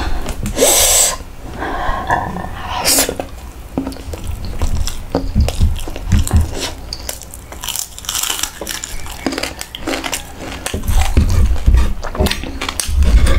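Close-miked chewing and crunching of crispy fried fish tail with rice, with many short crisp crackles.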